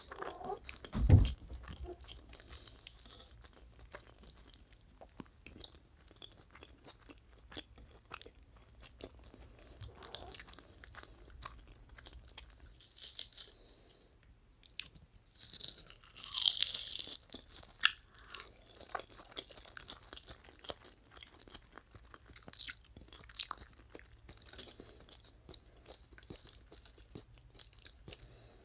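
Close-miked eating: chewing and crisp crunching bites of fried rice wrapped in roasted seaweed, with small wet mouth clicks. A low thump about a second in, and louder crunchy bites around the middle and again later.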